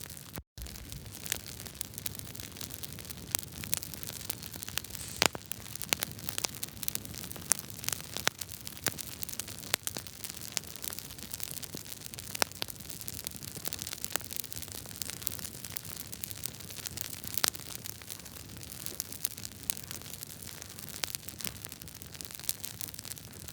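Wood fire crackling in a fireplace: irregular sharp pops and snaps over a steady hiss and low rumble of burning logs. The sound drops out for an instant about half a second in.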